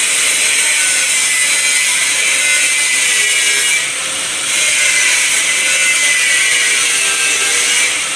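A power tool running with a loud, hissing whine. It eases off briefly about four seconds in, then picks up again.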